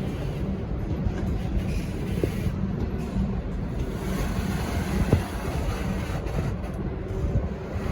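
V/Line N-class diesel-hauled passenger train pulling out of the station: a steady low rumble and hum, with two sharp knocks about two seconds in and again about five seconds in.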